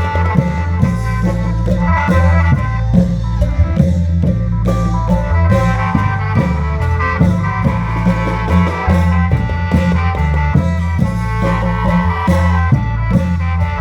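Isan klong yao band playing: long drums and percussion keep a steady beat under a khaen-style melody and a deep bass line that steps from note to note.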